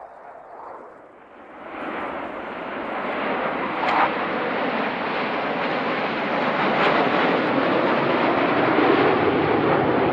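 Panavia Tornado jets' RB199 engines in a low flypast. The jet noise swells quickly about two seconds in and stays loud, with a brief sharper peak about four seconds in.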